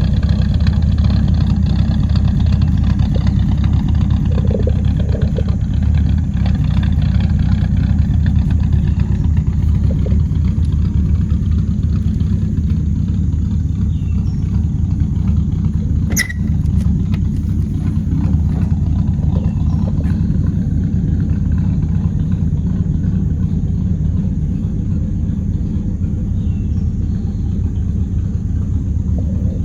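1983 Dodge D150 Miser pickup running on the move: a steady low engine and road rumble, with a single sharp click about halfway through.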